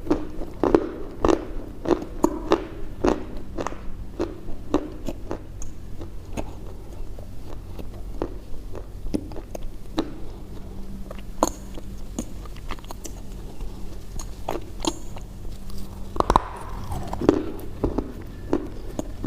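Crunchy food being bitten and chewed close to the microphone: sharp, irregular crunches, a few a second, thinning out around the middle. A faint steady low hum runs underneath.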